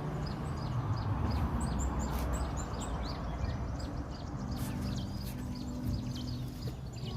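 Small birds chirping over and over in short, high, falling notes, several a second, over a low rumbling background noise. A low, steady hum joins about halfway through.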